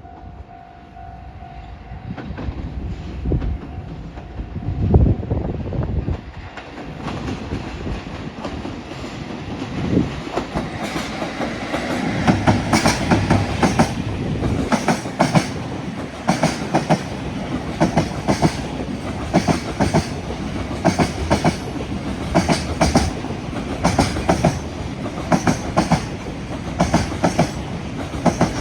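Electric train approaching with a rumble that builds over the first dozen seconds, then passing close by as a long, steady run of wheel clacks over the rail joints that goes on to the end.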